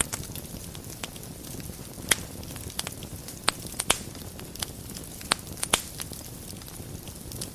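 Wood fire in a fireplace burning with a steady low crackle, broken by sharp pops every second or so, the loudest about two seconds in and again near four and six seconds.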